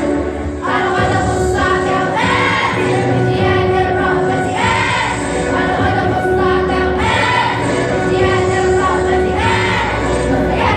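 Middle-school children's choir singing an Arabic nasheed, with music under the voices.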